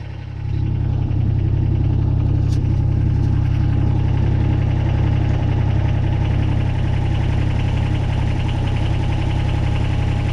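Kubota BX22 compact tractor's three-cylinder diesel running steadily at low idle, with a thin steady tone above the engine hum, while the hydraulics lower the backhoe's stabilizer legs.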